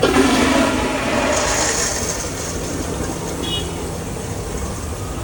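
Public restroom toilet flushing: a sudden loud rush of water that starts at once and slowly fades, a pretty powerful flush.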